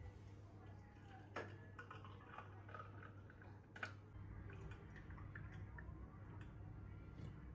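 Faint kitchen handling sounds: light clicks and taps of utensils or dishes, with two sharper knocks about a second and a half in and near four seconds, over a low steady hum.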